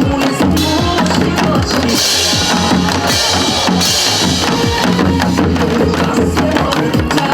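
Janggu, Korean hourglass drums, played together by a group in a quick steady rhythm along with music.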